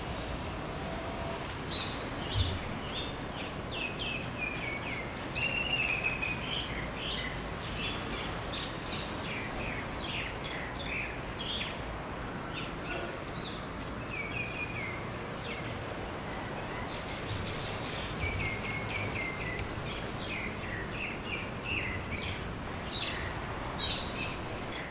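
Several birds chirping and singing in short, high-pitched notes and brief trills, scattered throughout, over a steady low background noise. One short low thump about two seconds in.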